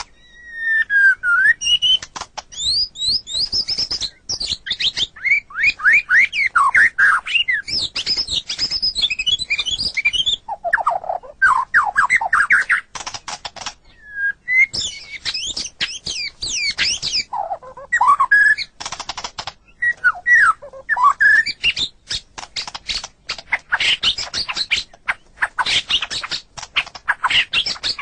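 White-rumped shama (murai batu) singing a long, varied song: rising and falling whistles mixed with rapid clicking, chattering notes, in phrases separated by short pauses.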